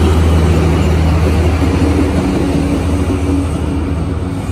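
Vietnam Railways D19E diesel-electric locomotive passing close by, its engine giving a loud, steady low drone. About two seconds in the drone eases and the passenger coaches roll past with wheel-on-rail noise.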